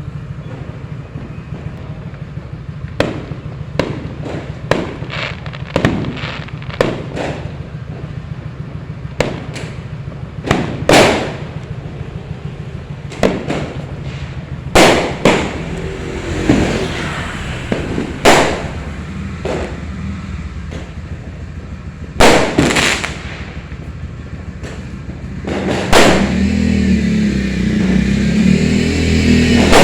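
Fireworks exploding: a long run of irregular sharp bangs, some much louder than others, over a steady low rumble. Near the end a motor vehicle engine builds up, revving.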